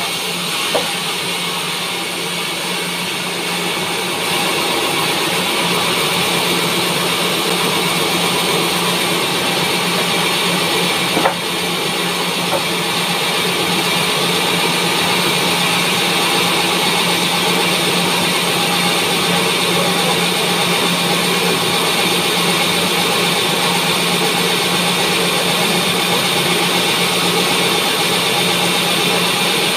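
Sawmill bandsaw running steadily, cutting pine logs, with a steady hum and one sharp knock about eleven seconds in.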